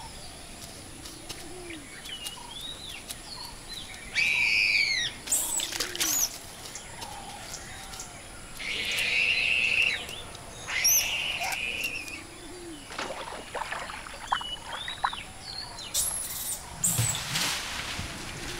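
Birds calling in forest ambience: several loud, arching whistled calls of about a second each, with shorter chirps between. Near the end comes a burst of sharp rustles and cracks in the branches.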